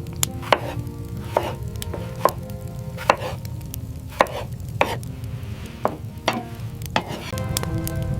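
A series of sharp, ringing strikes, about one a second, over a steady low rumble.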